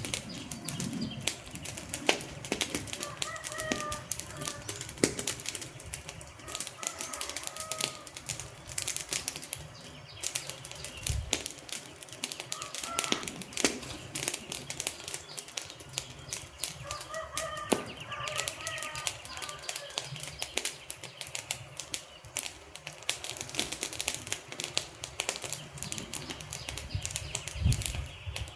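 Wood fire crackling: a dense, irregular run of sharp crackles and occasional louder pops over a soft hiss, with a few brief faint chirping tones now and then.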